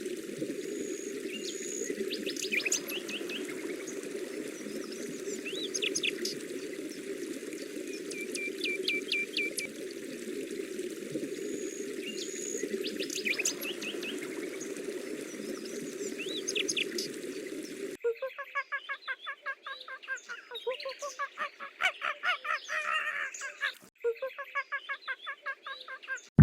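Small birds chirping and trilling over a steady low hum. About two thirds of the way in, this gives way to a different recording of fast, repeated bird calls.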